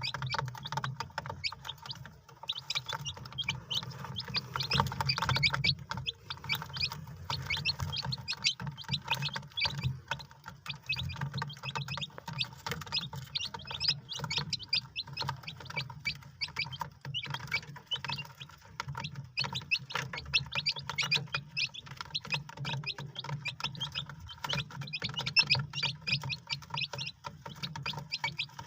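Many chicks peeping without a break, a dense stream of short high cheeps, over a low steady hum.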